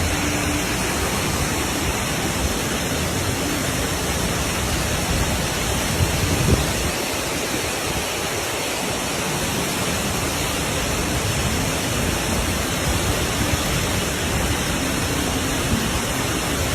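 A steady, even rushing noise that holds without pause.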